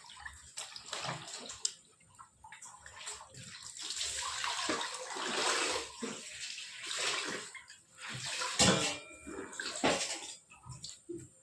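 Water pouring and splashing, swelling to a steady rush through the middle, with a few sharp knocks or splashes near the end.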